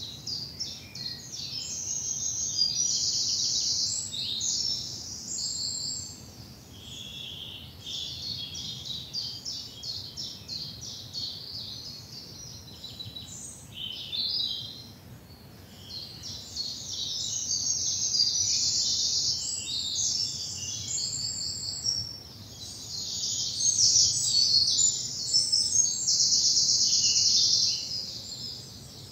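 Several songbirds singing at once in a spring woodland dawn chorus, with overlapping chirps and whistled phrases and a few long bursts of very rapid trilling.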